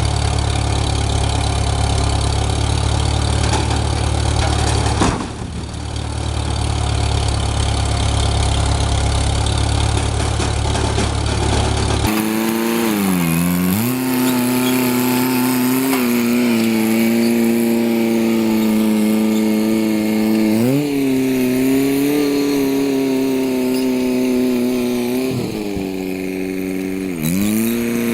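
An engine idling with a deep, steady hum, briefly dropping about five seconds in. After a cut, an engine runs at higher speed and its pitch sags and recovers three times, as if it is bogging under load.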